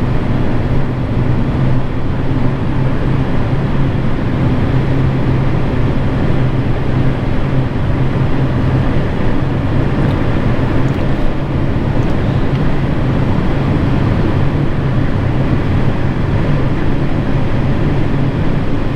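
Steady drone of a vehicle being driven, heard from inside the cabin: engine hum and road noise. It stays even throughout with no sudden events.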